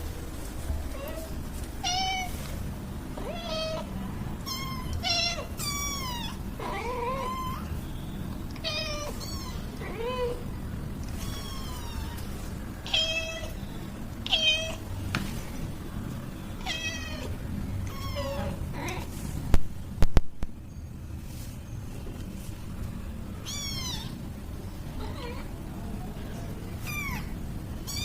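Young kitten meowing over and over in short, high-pitched calls, some falling in pitch. A few sharp knocks come about two-thirds of the way through.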